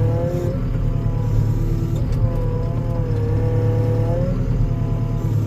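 Skid steer engine running steadily under load, with a whine that sags in pitch and recovers a few times as the machine pushes slowly against a tree to uproot it.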